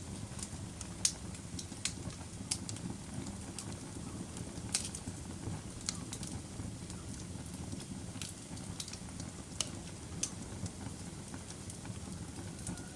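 Wood fire in a fireplace burning steadily with a low rumble, and irregular sharp crackles and pops from the burning logs, the loudest about a second in.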